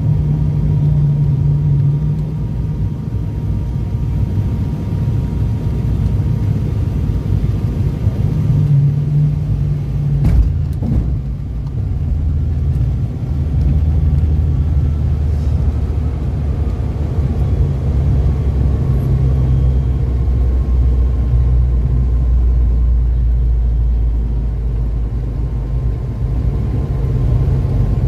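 ATR-72 turboprop cabin noise: the engines and propellers make a steady low drone with a humming tone. There is a short knock about ten seconds in, and the deep rumble grows heavier from about twelve seconds on.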